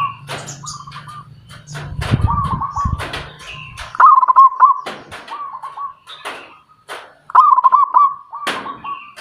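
A bird calling in short, rapidly trilled phrases, repeated about half a dozen times, with sharp clicks in between. A low hum runs under the first few seconds, with a loud low burst about two seconds in.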